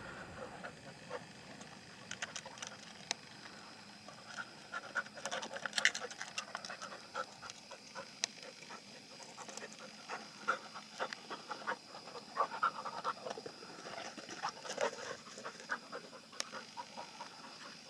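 Pigs feeding: many short, irregular grunts mixed with sharp clicks.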